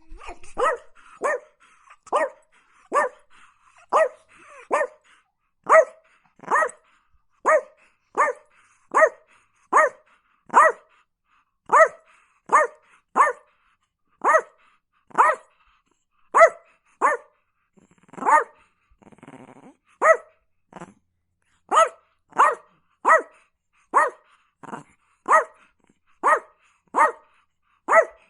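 Chihuahua barking over and over in short, sharp, high-pitched yaps, a little more than one a second, with a brief break about nineteen seconds in.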